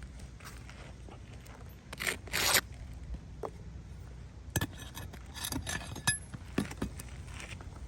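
Hand work on asphalt roof shingles while pulling nails from the ridge cap: two short scrapes about two seconds in, then a series of scattered clicks and taps.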